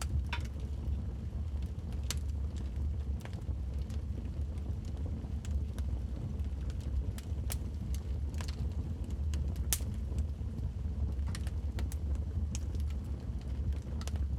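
Log fire burning in a fireplace: irregular sharp crackles and pops from the burning wood over a steady low rumble, with one louder pop about ten seconds in.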